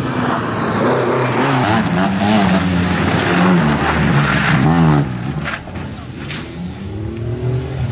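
Rally car engine revving hard, its pitch repeatedly climbing and dropping, with a sharp rev up and back down just before five seconds in and a few short clicks after it.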